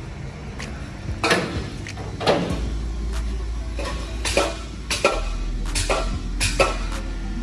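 Irregular metallic clanks and knocks as exhaust parts and tools are handled, about ten of them, with a steady low hum starting about a third of the way in.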